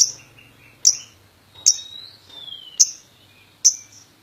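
Lovebird calling with short high-pitched chirps, about one a second, five in all.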